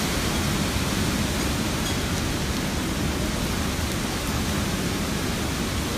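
Typhoon wind blowing hard, a steady rushing noise heavy in the low end, with wind buffeting the microphone.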